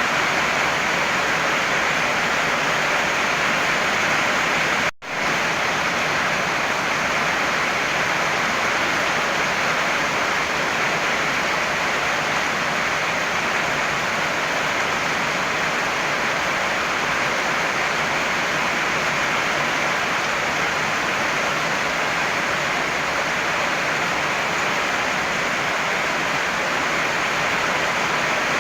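Heavy rain falling steadily, a dense even hiss. About five seconds in it cuts out for a split second, then resumes unchanged.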